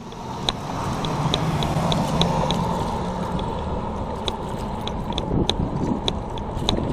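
Road bike in motion: scattered sharp clicks from the drivetrain over a steady rush of wind and tyre noise.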